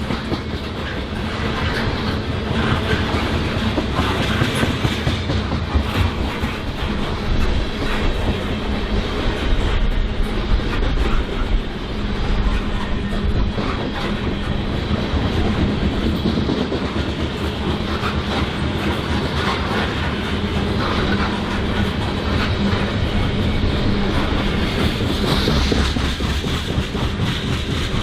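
Freight train cars rolling past, steel wheels clacking steadily over the rail joints with a continuous rumble.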